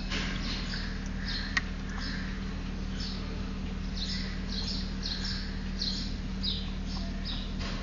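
Small bird chirping: short high calls that fall in pitch, a few each second, over a steady low hum. A single sharp click sounds about one and a half seconds in.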